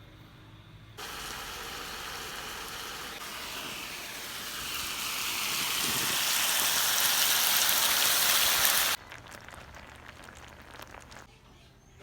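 A steady rushing hiss that starts suddenly, grows louder, and cuts off abruptly.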